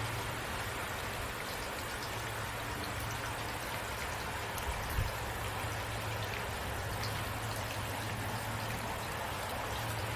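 Steady rain, a constant hiss with scattered individual drops ticking through it, over a low steady hum. There is a brief low thump about halfway through.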